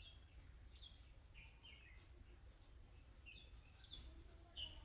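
Budgerigars chirping faintly: short, high chirps come a few at a time, with a cluster about a second and a half in and more near the end, over a low background rumble.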